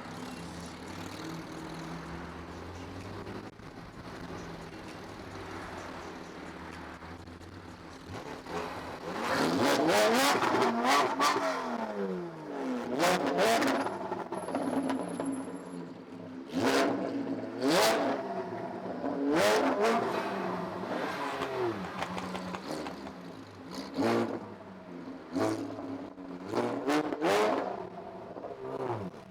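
Porsche 718 Cayman GT4's flat-six engine, breathing through a JCR full titanium exhaust with headers. It idles steadily at first, then is revved hard several times, the pitch climbing high and falling back with each blip; the biggest rev comes about nine seconds in.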